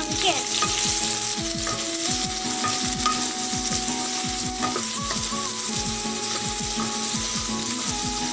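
Pumpkin cubes and onion sizzling in hot oil in a wok, stirred with a wooden spatula. Background music with held notes that change pitch plays under it.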